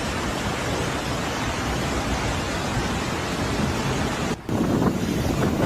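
Steady rushing noise of fast-moving floodwater, with wind buffeting the microphone. The sound drops out for an instant about four seconds in, then a similar, slightly louder rush takes over.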